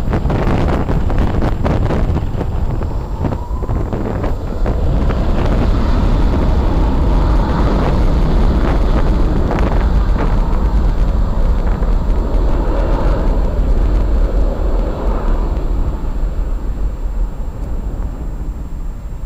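Airliner engines passing close by, the rumble swelling over several seconds and then fading, with wind buffeting the microphone.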